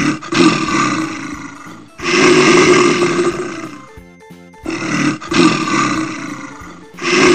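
Male lion roaring: four loud roars about two to two and a half seconds apart, each starting suddenly and fading away.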